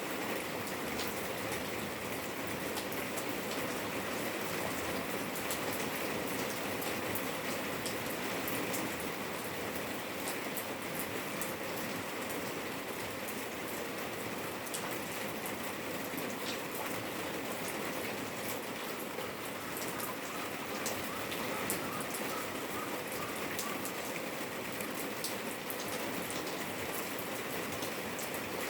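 Steady rain falling: an even hiss with many small drop taps.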